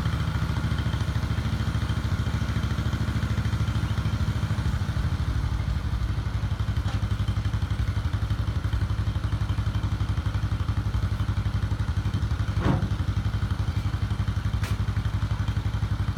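An old engine running steadily at low speed, with an even pulsing beat; the beat settles slightly about five seconds in. A single sharp knock sounds about three-quarters of the way through.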